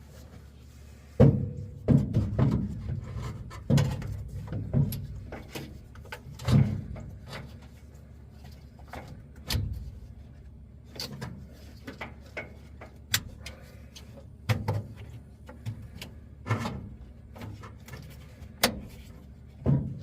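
Irregular knocks, clunks and rattles of hands working parts and tools, with a few sharp clicks; the loudest knock comes about a second in.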